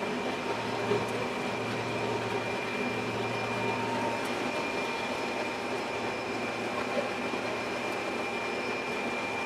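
A combine harvester running while cutting wheat: a steady machine drone with a constant high whine over a low hum.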